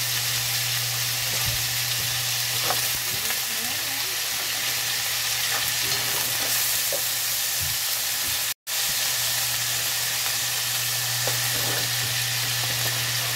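Blue swimming crabs and vegetables frying in a nonstick wok: a steady sizzle, with a wooden spatula stirring and scraping them around. The sound cuts out for an instant about two-thirds through.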